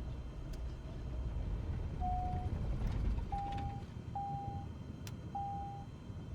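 Steady low rumble of a Cessna 172 cockpit, engine and airflow, with four short electronic beeps about two to six seconds in, the first slightly lower in pitch than the other three, and a few sharp clicks.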